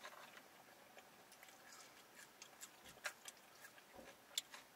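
Near silence broken by a few faint, sharp mouth clicks and smacks of people chewing food, the loudest about three seconds in and shortly before the end.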